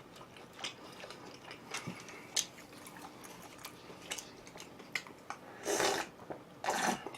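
Close-miked eating sounds: scattered small clicks and mouth smacks of chewing, then two short, louder noisy bursts near the end.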